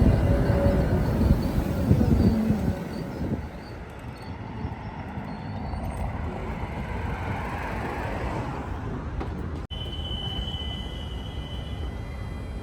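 Tatra tram running past on rails: a loud rumble of wheels and running gear with faint whining tones, which drops off about three seconds in to a quieter, steady rumble. Near the end a brief cut is followed by a thin, steady high squeal lasting about two seconds.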